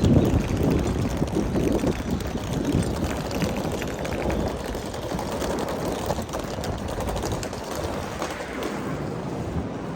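Steady noisy rumble of a busy airport terminal, louder in the first couple of seconds and then easing a little.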